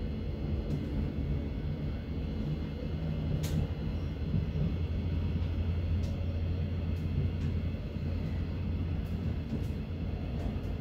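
Thameslink electric train running on the line, a steady low rumble of wheels and running gear, heard from inside the carriage. A few faint sharp clicks sound over it, the clearest about three and a half seconds in.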